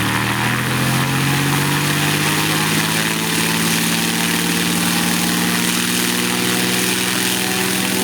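Light propeller plane's piston engine running loudly and steadily, its pitch rising slightly over the first few seconds and then holding.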